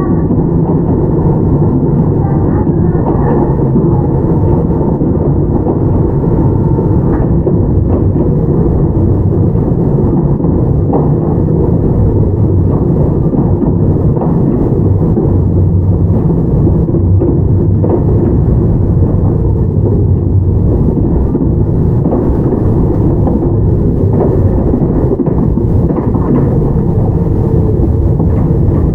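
Onboard running noise of a Toyama Chiho Railway 17480 series electric train, a former Tokyu 8090 series with field-chopper control, under way: a steady, loud low rumble of wheels and running gear on the track.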